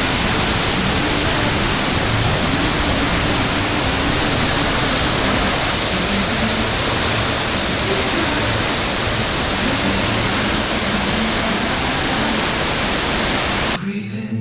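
Loud steady rush of a large waterfall falling into its pool. It cuts off abruptly near the end, and music begins.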